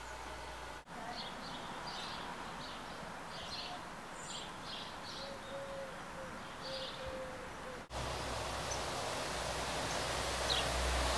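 Small birds chirping in short, scattered calls over a steady outdoor background hiss. Near the end the ambience changes to a low rumble that grows steadily louder.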